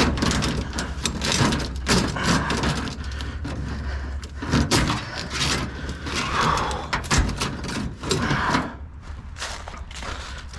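Irregular clattering and knocking of scrap being handled and moved about, over a low steady rumble that stops about eight and a half seconds in.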